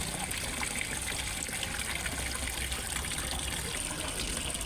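Steady splashing and trickling of water from a small waterfall falling into a fish pond.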